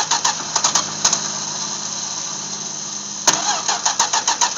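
1973 Dodge Dart's slant-six engine being cranked over by the starter in rapid rhythmic pulses without catching, in two bursts, the second starting with a sharp hit about three seconds in.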